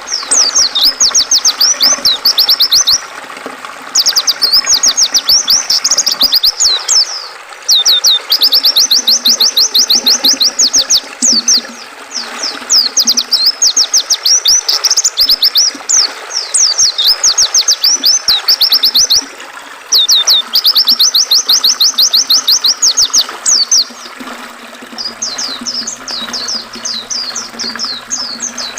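White-eye (pleci) singing long, very rapid high twittering phrases of about three seconds each with short pauses between, the last phrase softer, over the steady rush of river water.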